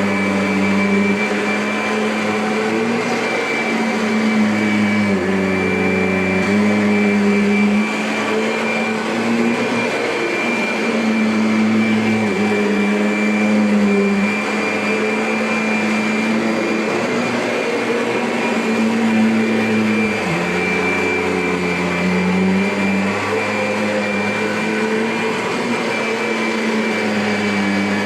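Kirby upright vacuum cleaner running steadily: a high motor whine over a low hum that steps down and back up in pitch every few seconds.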